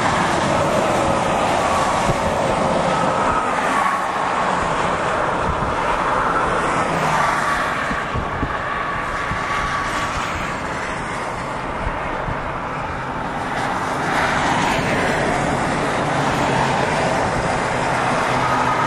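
Steady road and engine noise of a moving car heard from inside the cabin, with a faint whine that drifts up and down in pitch.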